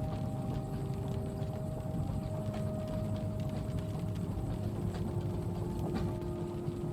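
Steady low rumble of a train carriage in motion, with a hum of a few held tones that shift pitch a little now and then. Occasional light clicks and clacks sound over it.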